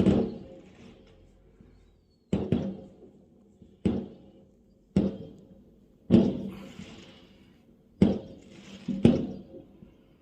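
Fireworks going off: about seven bangs at irregular intervals, each with a short echoing tail, two of them followed by a faint crackling fizz.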